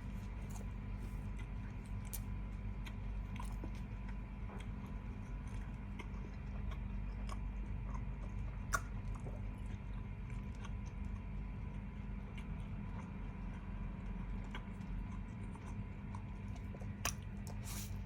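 A person chewing food close to the microphone, with many small wet clicks and crunches and a sharper click about nine seconds in and again near the end, over a steady low hum.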